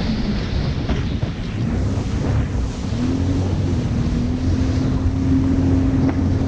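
Jet ski engine running under way, its pitch stepping up slightly about three seconds in, with wind buffeting the microphone.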